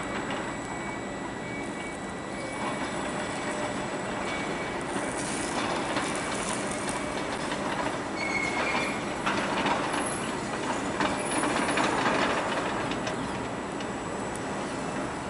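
FS E.444 electric locomotive and its passenger coaches rolling slowly over curved points, the wheels clattering over the rail joints. There is a brief high wheel squeal about eight seconds in, and the sound grows louder as the train comes closer.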